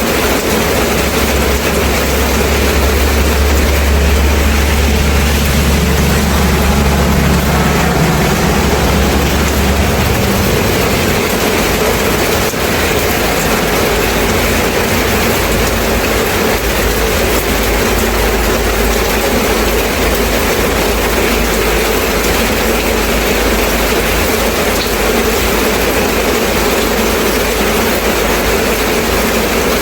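Steady rain falling, an even hiss. A low rumble, like a distant engine, runs under it for about the first ten seconds and then fades away.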